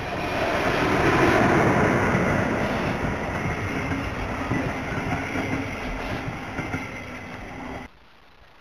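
Electric locomotive and double-deck passenger coaches passing close by: a loud rush of wheel and rail noise that peaks about a second and a half in and slowly fades as the coaches roll past, then cuts off suddenly near the end.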